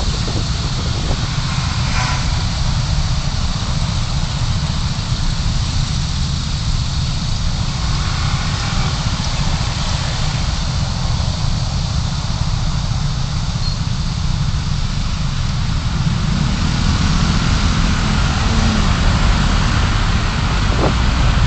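Car on the move recorded by a dashcam: a steady low rumble of engine and road with an even hiss of tyre and wind noise, growing a little louder near the end.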